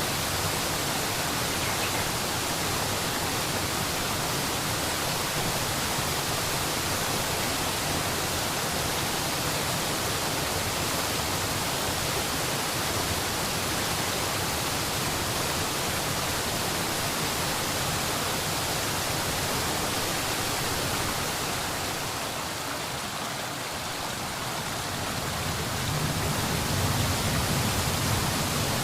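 Steady rushing roar with no distinct events. It dips slightly a little past the middle, then a deeper rumble comes in near the end.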